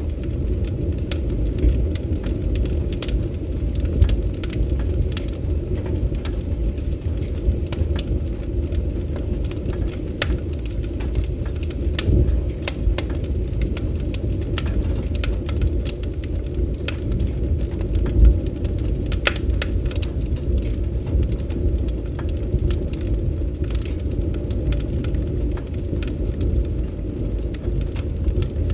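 Wood fire crackling, with many sharp pops and snaps over a steady low rumble; a few pops stand out louder.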